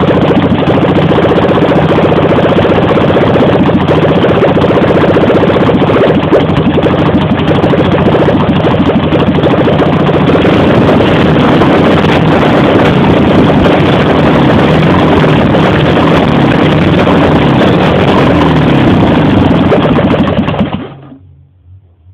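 Ural motorcycle's air-cooled flat-twin engine running loudly and steadily, then shut off near the end.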